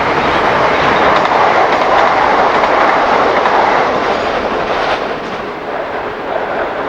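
Freight train passing, its wheels clattering over the rail joints. The noise builds to its loudest in the first few seconds, then eases off.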